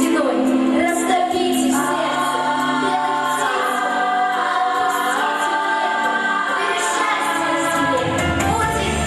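Vocal ensemble singing in held notes over an instrumental backing track; a deeper bass part comes in near the end.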